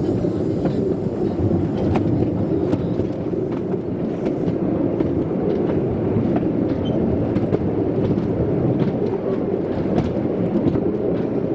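Railway train running on the track: a steady low rumble of wheels on rail, with scattered light clicks and knocks.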